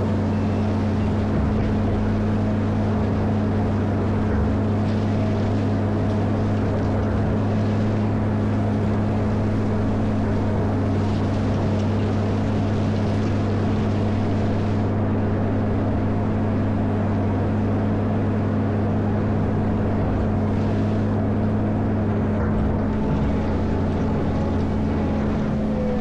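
Caterpillar 140M motor grader's diesel engine running steadily, a constant low drone that holds the same pitch throughout.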